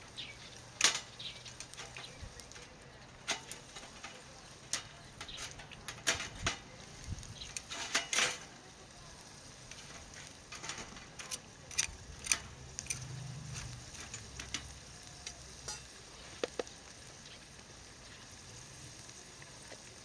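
Ajillo (mushrooms and shrimp in olive oil) sizzling gently in a pan over a charcoal fire, with irregular clicks and taps of a utensil against the pan as it is stirred.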